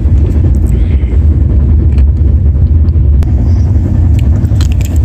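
Passenger train running: a steady low rumble heard from inside the coach, with a few faint clicks over it.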